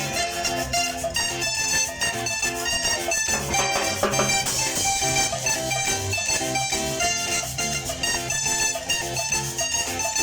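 Colombian carranga music: an instrumental passage of plucked strings in a steady, rhythmic strum, with a regular bass beneath.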